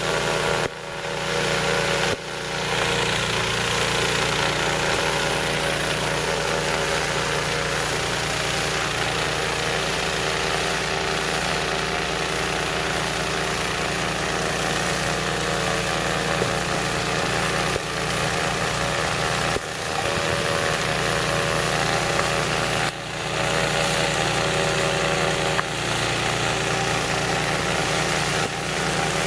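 Snowblower engine running steadily, with a few brief dips in level.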